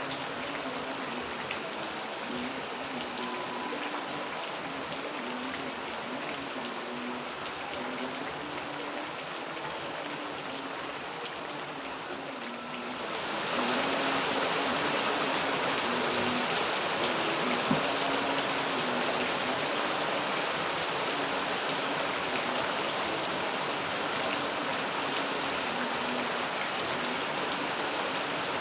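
Steady rain falling, which grows heavier and louder about halfway through, with an occasional single drop hitting close by.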